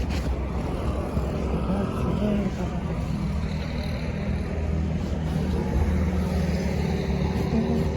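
Road traffic: a steady low rumble of vehicles going by.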